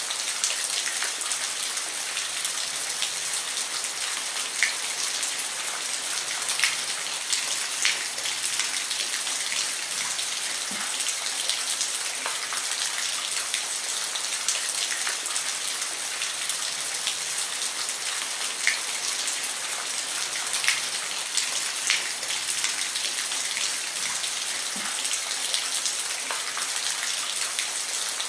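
Steady rain falling on a roof, an even hiss with scattered louder individual drops ticking on the roof surface.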